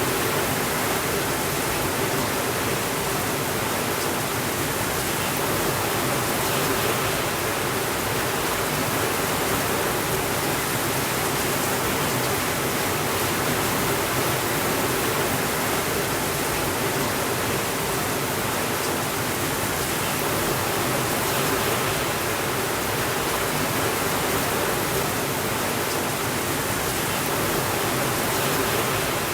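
Steady rainfall, a dense even hiss with no breaks, no thunder and no changes in level.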